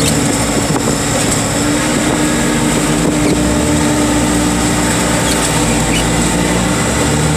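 Heavy equipment's engine running steadily under load, a constant hum with a steady higher whine over it.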